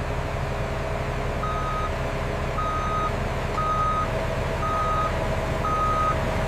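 Construction vehicle's reversing alarm beeping five times, about once a second, starting about a second and a half in, over the steady running of a heavy machine's engine.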